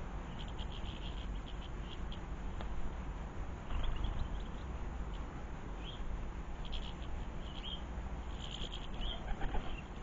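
Small garden birds chirping in short, scattered calls over a steady background hiss.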